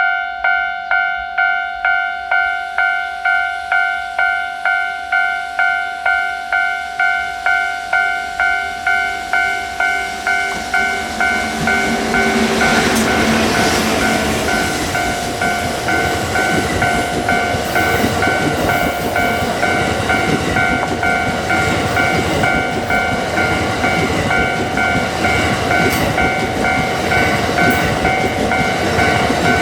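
Level-crossing bell ringing in rapid, even dings, about two and a half a second. About twelve seconds in, an EF81 electric locomotive hauling E26-series sleeper coaches passes with loud, steady rolling noise while the bell keeps ringing.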